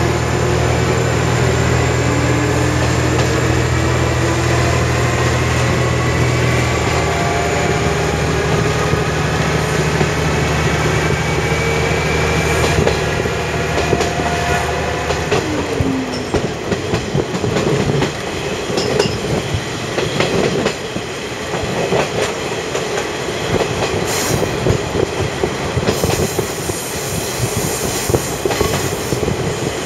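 Diesel railcar heard from on board: the engine runs with a rising whine through the first half, then drops away at about the halfway point. The wheels then clatter over rail joints, with wheel squeal in the last few seconds.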